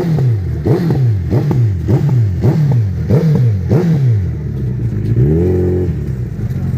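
Motorcycle engine revved in quick repeated throttle blips, each rising sharply and falling away, about eight in a row. Near the end the revs rise and are held steady.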